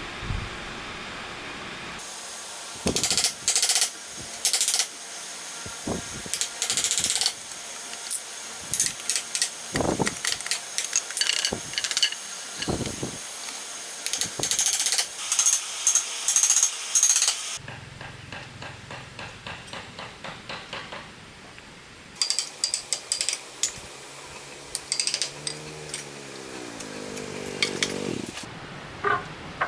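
Woodworking with hand tools: a series of sharp knocks and stretches of scraping or rasping strokes, then quieter work with a rising whine near the end.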